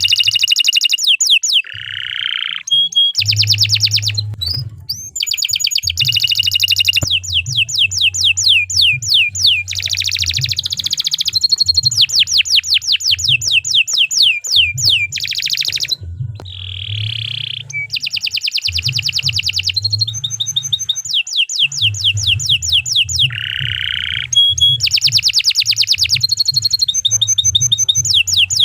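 Domestic canary singing a long, continuous song of fast rolling trills, each phrase a rapid run of repeated notes, with brief pauses between phrases.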